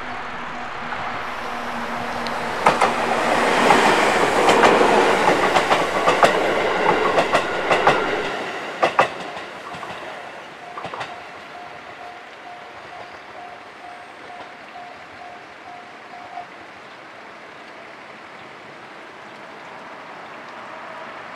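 A JR Central 373-series electric limited express passes through a level crossing, its wheels clicking sharply over the rail joints for about six seconds before the sound dies away. Throughout, the crossing's warning bell rings in a steady repeating pattern. It stops about two-thirds of the way through.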